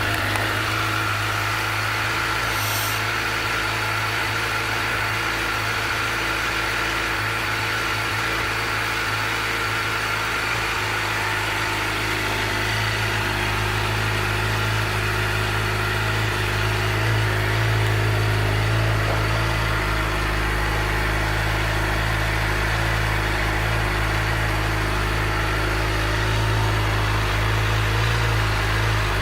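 2013 Suzuki GSX-R750's inline-four engine idling steadily just after start-up.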